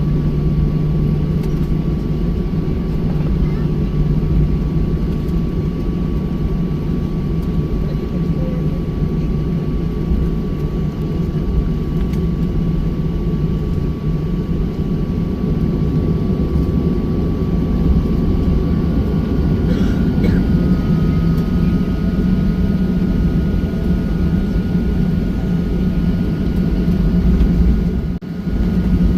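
Cabin noise of a Boeing 737-800 in flight: a steady low rumble of CFM56 jet engines and airflow, with a thin whine that steps up in pitch about two-thirds of the way through. The level drops briefly near the end.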